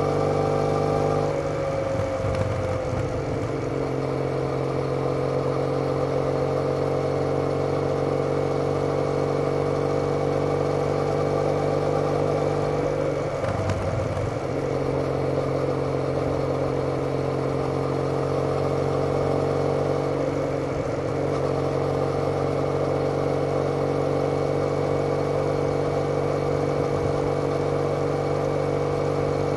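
Triumph Bonneville's parallel-twin engine running through TOGA silencers, recorded on the moving bike at a steady cruise. The even exhaust note is briefly broken about two seconds in and again around thirteen seconds in.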